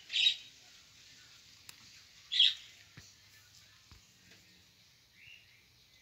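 Two loud, short, harsh bird calls about two seconds apart, with a fainter, softer call near the end.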